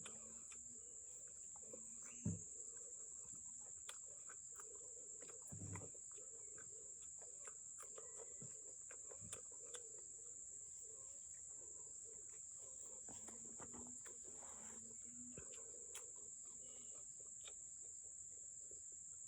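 Faint, steady, high-pitched chirring of insects, with scattered soft clicks and a low thump about two seconds in.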